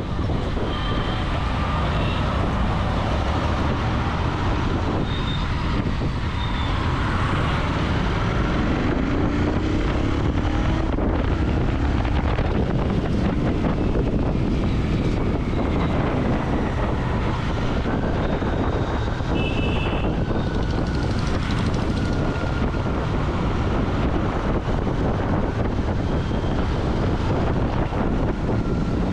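Royal Enfield Continental GT 650's 648 cc parallel-twin engine and exhaust running under way, with wind on the microphone. The engine note rises once about eight seconds in as it revs.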